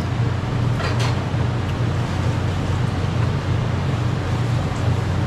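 Steady low droning hum of background machinery, with a faint short clink about a second in.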